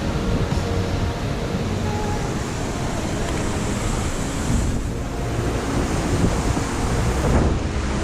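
Strong gusting mountain wind buffeting the action-camera microphone with a loud, rumbling rush that swells and eases.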